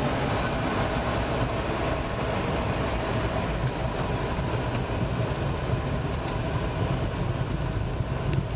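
Steady low rumble of a vehicle in motion, with faint constant hums running through it and a small click near the end.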